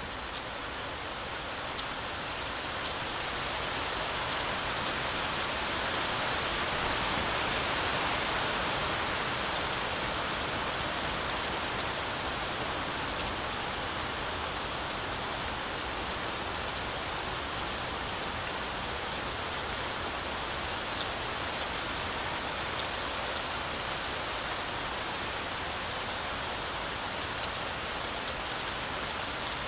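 Heavy rain falling steadily, a dense even hiss with scattered sharper drop hits. It swells slightly a few seconds in, then settles back to an even pour.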